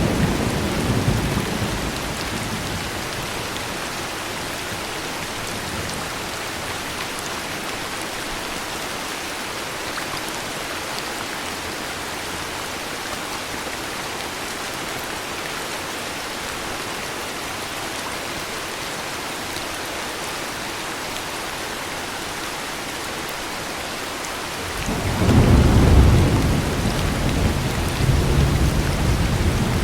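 Steady heavy rain with rolling thunder: a deep rumble dies away in the first couple of seconds, and another rumble swells up near the end and keeps rolling.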